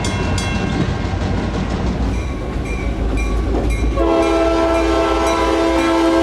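Diesel locomotive running past with a deep engine rumble and wheel clatter. About four seconds in, its air horn comes on, several notes sounding together, and holds steadily.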